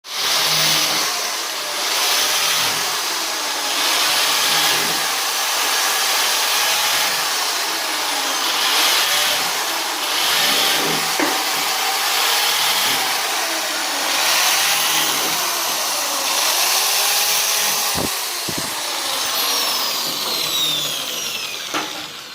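Electric woodworking power tool running for a long stretch while cutting wood, its pitch repeatedly dipping and recovering as it takes load. It starts abruptly and stops near the end.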